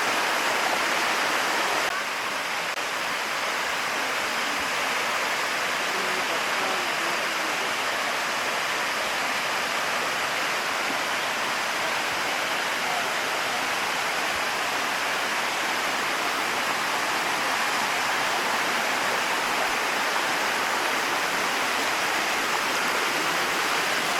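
Bua Tong (Sticky) Waterfall: water cascading down calcium-deposit rock, a steady, even rush.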